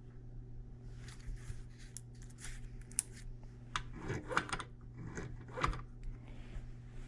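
Small clicks, taps and rustling from parts being handled and worked by hand, with the busiest, loudest handling about four to six seconds in. A steady low hum runs underneath.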